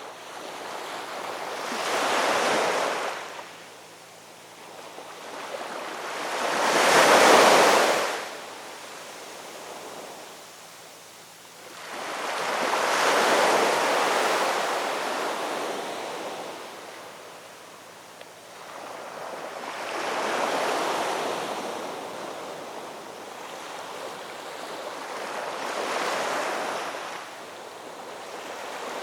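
Ocean waves breaking on a shore, surging and receding about every five to six seconds, one break near a quarter of the way in louder than the rest.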